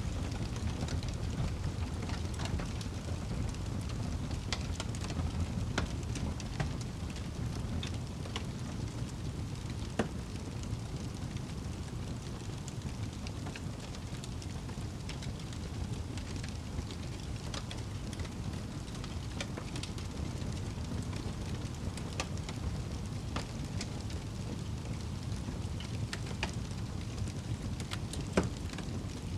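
Fireplace crackling: a steady low rumble with scattered sharp pops and snaps, one louder pop near the end.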